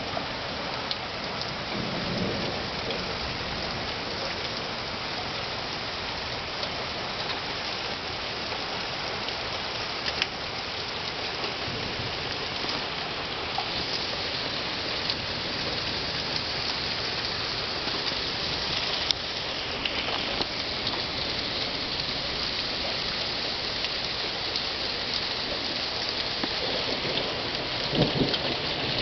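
Heavy storm rain and hail pelting steadily on a surface, with scattered sharp ticks from single hits. A low rumble, likely thunder, swells near the end.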